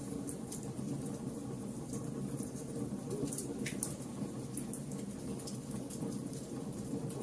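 Fire crackling: scattered sharp pops and snaps over a steady low rumble of the flames.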